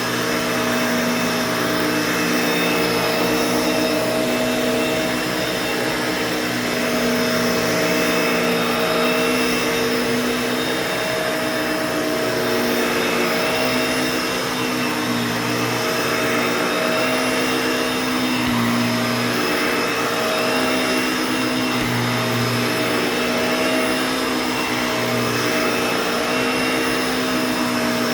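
Bissell Pet Hair Eraser Turbo vacuum cleaner running steadily while vacuuming. Its motor hum wavers slightly in pitch and loudness as it is worked back and forth.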